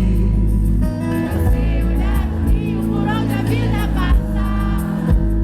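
Live band music with singing: steady bass and guitar under a voice that slides between notes.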